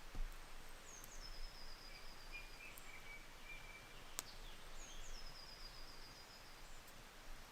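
Woodland songbirds singing in quiet surroundings: two high trilled phrases a few seconds apart, each dropping at the start into a quick run of repeated notes, with lower chirps in between. A single sharp click a little past the middle.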